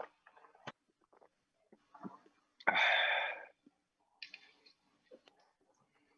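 A person's loud breathy exhale, about three seconds in and lasting under a second, right after a toast with beer, among faint scattered clicks.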